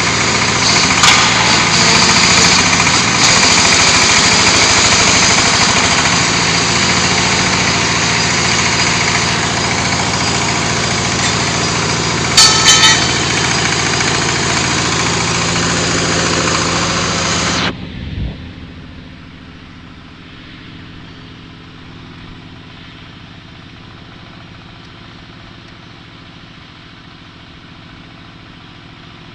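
Diesel engine of a hydraulic concrete block machine running loud and steady, with a short burst of metal clanks partway through. After about eighteen seconds the noise cuts off sharply and only a much quieter low hum remains.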